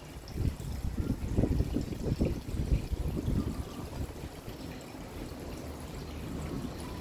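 Rain falling with a steady wash of trickling, pouring water, and a low rumble of distant thunder that swells in the first few seconds and then eases off.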